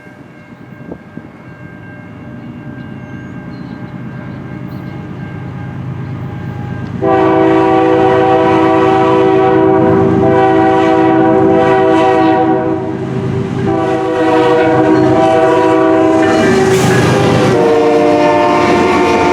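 Diesel freight locomotives approaching, their rumble growing steadily louder. About seven seconds in, the lead locomotive's multi-note air horn starts: a long blast, then after brief breaks two more long blasts, sounding for the road crossings.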